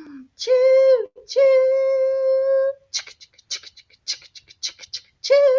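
A woman imitating a steam train with her voice: a sung "choo-choo", the second note held like a whistle, then a run of quick breathy "ch" puffs, about five a second, like a train chugging.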